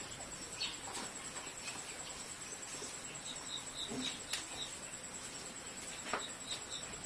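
A small bird's short high chirps in two quick runs, five then three, over a faint steady high-pitched whine and a few light clicks.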